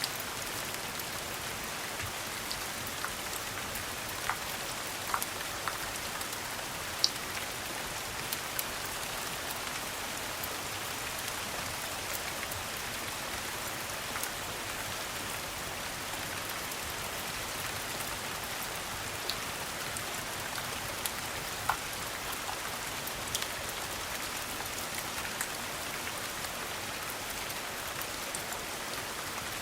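Steady rain falling, with a sharp pop or click every few seconds.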